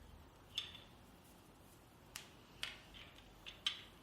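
About five light, sharp clicks and taps, spread unevenly, as small decorating tools or utensils are handled against a hard surface.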